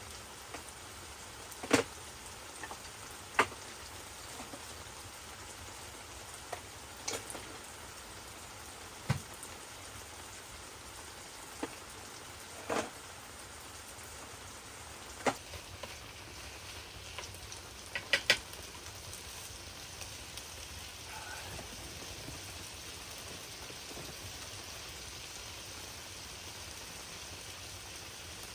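Steady hiss of rain, with about a dozen scattered sharp taps or cracks, two of them close together near the end.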